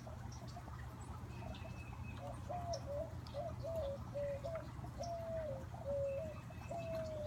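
A low-pitched bird call, a series of about eight short hooting or cooing notes, the last one longer and falling, over the steady trickle of a garden fountain. Faint high chirps of small songbirds come and go.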